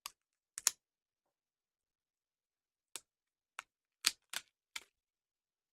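Board game cards handled and set down on a table: a scattered series of about eight short, sharp taps and snaps, the loudest just under a second in and about four seconds in.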